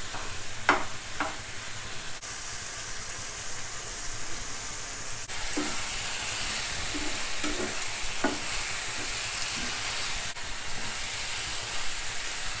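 Button mushrooms and masala sizzling in hot oil in a pan while being stirred, the spoon knocking and scraping against the pan a few times; the sizzle gets louder about five seconds in. The masala is being fried with the mushrooms until the oil separates.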